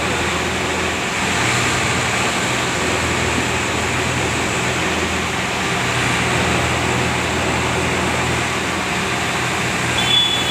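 Tractor engine running at a steady speed. A thin high steady tone starts near the end.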